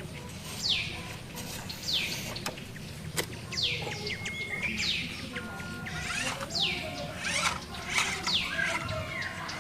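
A bird calling: short sharp chirps that fall steeply in pitch, repeated about once a second over a steady low rumble.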